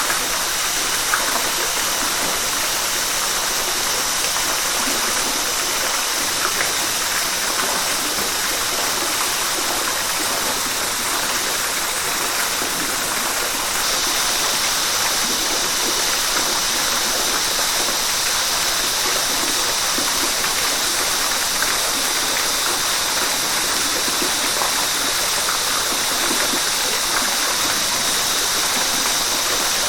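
River water flowing steadily over rocks. A high hiss within it grows a little stronger about halfway through.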